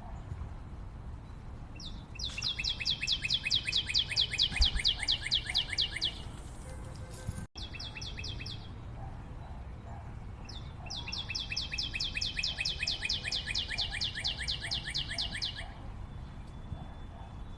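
A bird singing long, fast trills of rapidly repeated high notes, twice, each lasting about four seconds, with a shorter burst between them. Fainter, lower repeated calls go on underneath.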